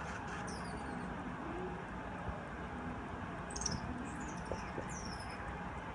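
Hummingbirds giving thin, high, squeaky calls that slide down in pitch, four times, over a steady background hiss.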